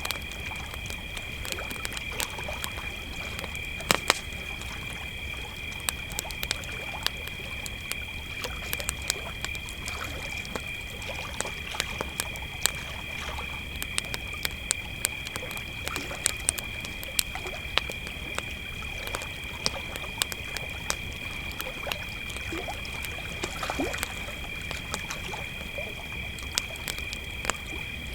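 Crickets chirring in a steady chorus, with a campfire crackling and popping throughout; one louder pop about four seconds in.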